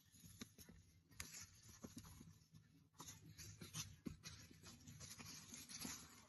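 Faint, irregular scratching and rustling with scattered small clicks: hands or a hand tool working through raised-bed soil to dig out potatoes.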